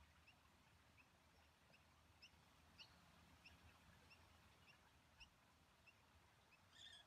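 Near silence with faint, high bird chirps repeating a few times a second, and a louder call near the end.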